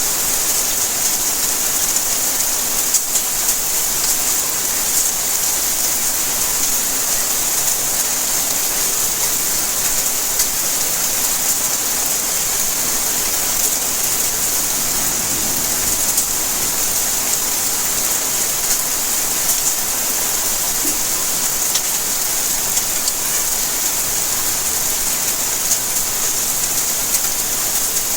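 Steady rainfall: an even hiss of rain with many small drop ticks.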